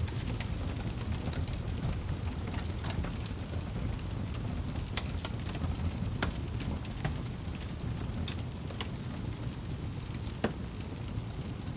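Wood fire crackling in a fireplace: a steady low rumble of burning with irregular sharp pops and snaps, one louder pop near the end.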